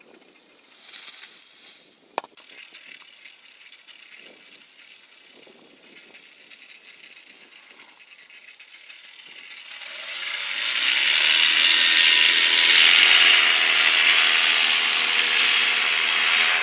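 A small engine comes up to a loud, steady run about ten seconds in, after a quieter stretch broken by a single sharp click near two seconds.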